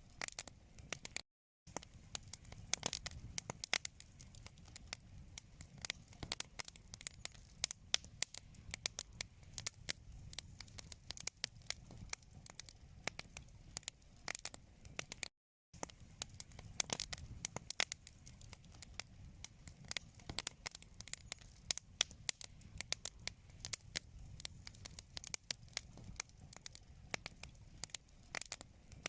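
Wood fire in a fireplace crackling, with dense irregular sharp pops and snaps over a low rumble of burning. The sound cuts out to silence briefly twice, about a second and a half in and again about halfway.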